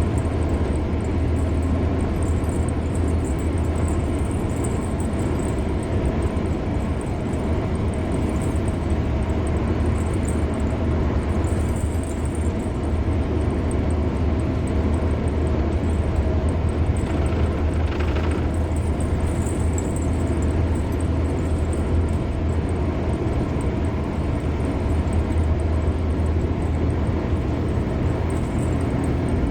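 Steady road noise of a car driving along a highway: a continuous low rumble of tyres and engine. There is a short rise in hiss about two-thirds of the way through.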